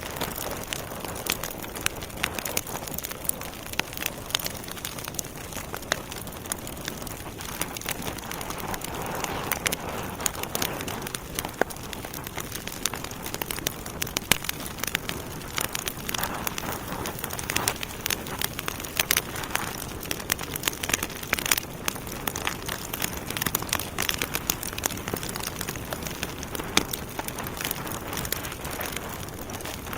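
Wood logs burning in a fireplace: a steady hiss under frequent, irregular sharp crackles and pops.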